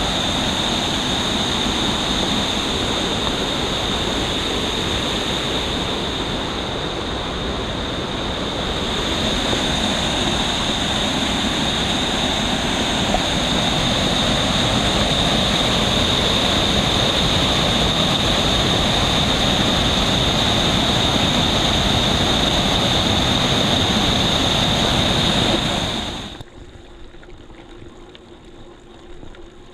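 Waterfall water rushing and splashing in a steady, loud roar of noise, with a thin steady high whine over it; it cuts off abruptly about 26 seconds in, leaving much quieter background noise.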